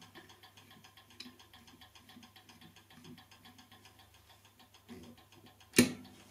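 Handling sounds from a clock movement being assembled on a workbench: faint, rapid, evenly spaced ticking throughout, then one sharp knock near the end.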